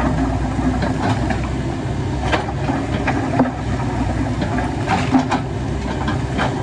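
Heavy diesel engine of construction machinery running steadily, with several sharp knocks over it.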